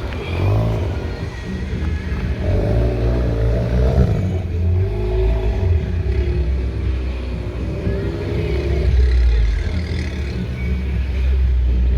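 A car engine running and revving, its sound mostly a low rumble, with the pitch rising and falling a few times.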